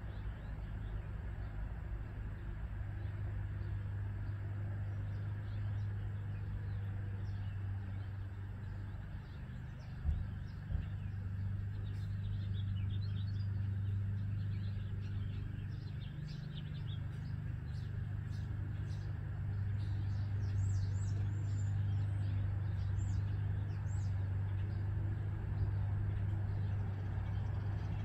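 Birds chirping, a run of short high calls in the middle and later part, over a steady low hum. One low thump about a third of the way in.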